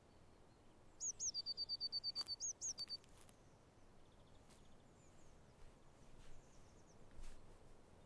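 A small songbird singing a rapid trill of about a dozen high, evenly repeated notes, then a fainter, shorter burst of song a few seconds later, over a quiet outdoor background with a few faint clicks.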